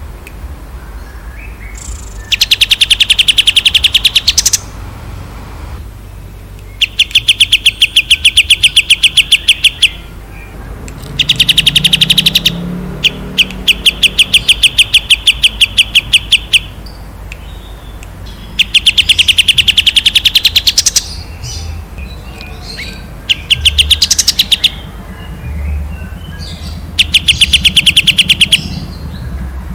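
A songbird singing long bursts of rapid, evenly repeated sharp notes, about ten a second, each burst lasting one to four seconds with short pauses between, about seven bursts in all.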